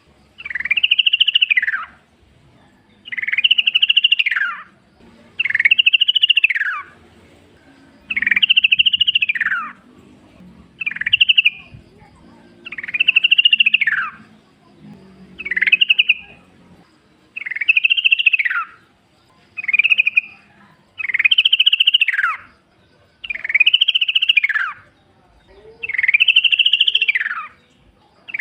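Yellow-vented bulbul calling over and over, about one call every two seconds. Each call is an arching whistled phrase that rises and then falls, and a few are clipped short.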